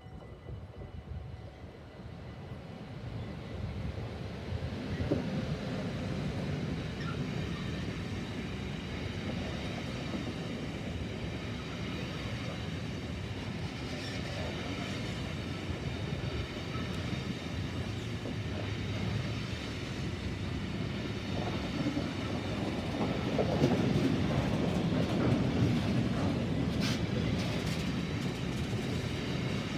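DB Cargo class 189 electric locomotive and its intermodal container train running past, growing louder over the first few seconds and then a steady rumble of wheels on rails with some clicking over the joints. There are faint steady whines higher up, and it is loudest a little past the middle.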